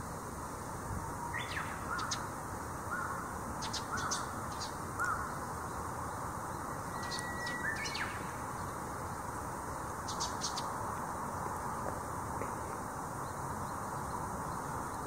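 Birds calling outdoors: four short cawing calls about a second apart, then scattered short high chirps over a steady background hiss.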